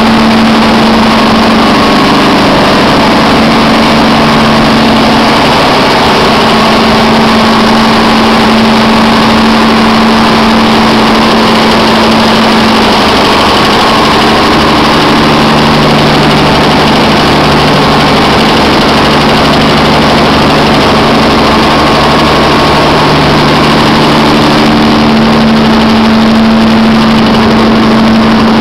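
Biogas-fuelled engine running loudly and steadily, its low hum holding a near-constant pitch.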